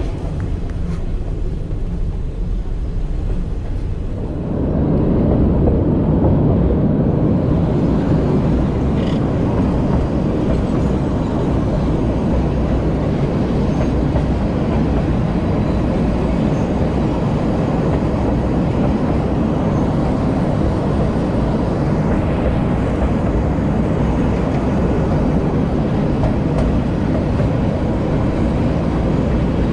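The Little Yellow Train, an electric metre-gauge train, running along the line with a steady rumble of wheels and running gear. About four seconds in it becomes louder and stays that way.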